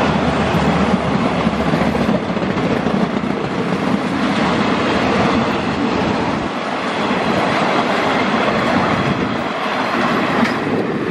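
Passenger coaches of a Thai diesel-hauled express rolling past close by: a loud, steady rush of steel wheels on the rails.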